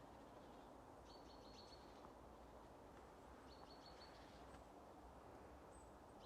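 A small bird's short, high trilling call, heard twice, over a faint steady outdoor hush.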